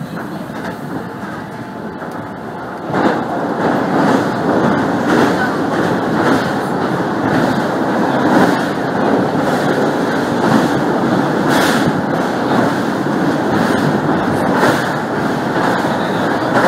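Train running noise: a steady rumble of steel wheels on rails with occasional clacks. It gets sharply louder about three seconds in and stays louder as the run goes onto a steel truss bridge.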